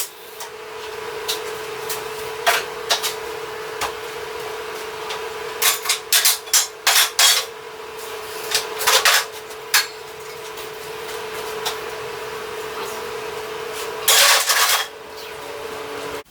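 Metal fabrication work on a pit-bike triple tree: short welding tacks and clinks of metal parts over a steady hum, with the longest tack about fourteen seconds in.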